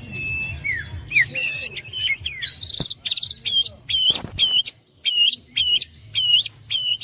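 Caged songbirds singing: varied whistled phrases in the first three seconds, then one bird repeating the same sharp, hooked whistle about twice a second.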